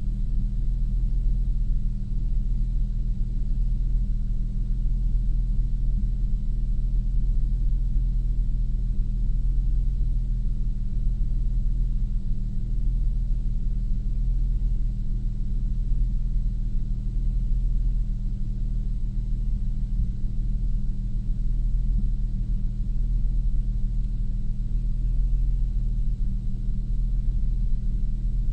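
2002 Nissan Maxima's 3.5-litre V6 engine running at a steady speed, a low, even drone.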